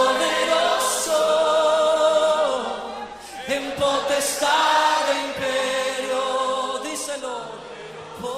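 Group of voices singing a worship chorus without instruments, holding long sustained notes in harmony, with short breaks about three seconds in and again near the end.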